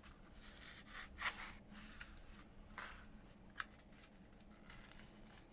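Faint rustling and brushing of paper being folded and creased by hand, with a few short soft scrapes.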